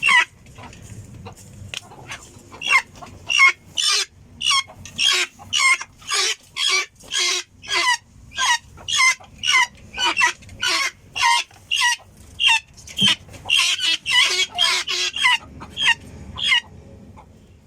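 Guineafowl calling: a long run of short, evenly repeated calls, about two a second, stopping shortly before the end.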